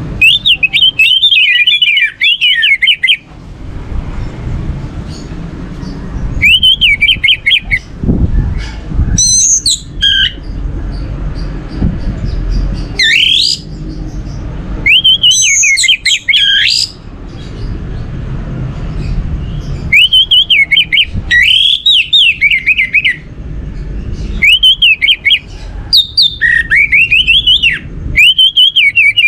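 Orange-headed thrush (anis merah) singing in about ten bursts of fast, varied warbling phrases, each a second or two long, with short pauses between them, over a low background hum.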